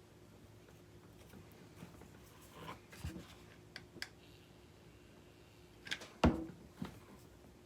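Handling noises of hot-glue crafting at a table: scattered light clicks and small knocks, with the sharpest knock about six seconds in, over a faint steady hum.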